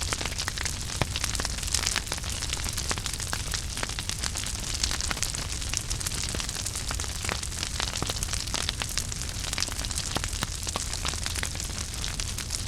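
Wood fire burning in a fireplace: a steady hiss and low rumble with dense, irregular crackles and pops throughout.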